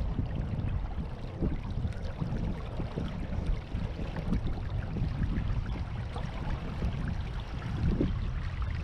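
Water rushing and splashing along the hull of a Beneteau First 20 sailboat under way, with an uneven low rumble of wind on the microphone.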